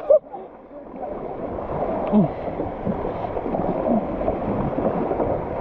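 Steady rush of flowing water around a kayak, building up in the first second and then holding.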